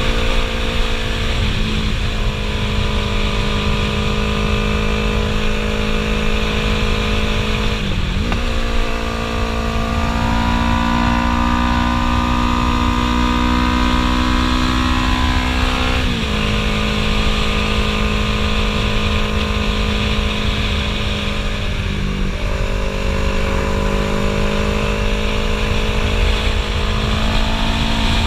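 Yamaha YZF-R3's 321 cc parallel-twin engine running through a Two Brothers Racing S1R full-system exhaust with carbon fibre muffler, its note holding steady, dropping sharply and climbing again several times as the rider works the throttle and gears through bends, with wind rush underneath.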